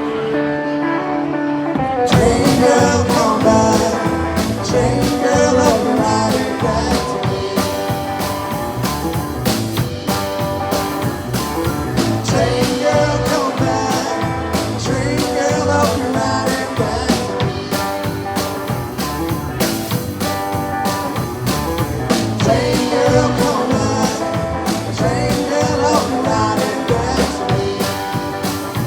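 Live rock band playing an instrumental passage of a song, led by guitar. Held chords for about the first two seconds, then the drums and full band come in with a steady beat.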